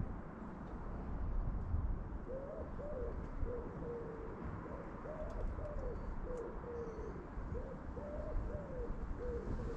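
A bird giving low hooting or cooing calls: a phrase of several soft notes, the first arching and the later ones falling, repeated about every three seconds from a couple of seconds in, over a steady low background rumble.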